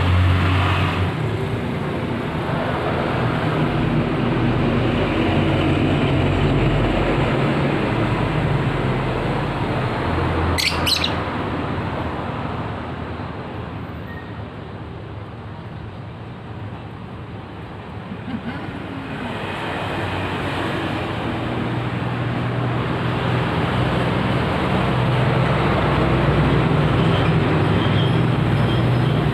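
Road traffic rumbling, swelling and fading as vehicles pass, with one short high bird chirp about ten seconds in.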